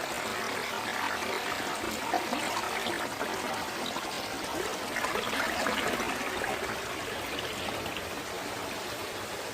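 Steady sound of flowing water, a forest stream trickling and pouring.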